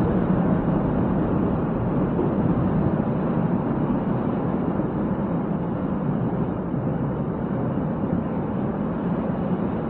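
Container freight train wagons rolling past, a steady rumble of steel wheels on the rails.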